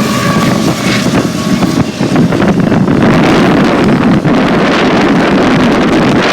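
Freight train rolling past close by: a loud, steady rumble with rattling and clicking from the wheels and cars, and wind buffeting the microphone.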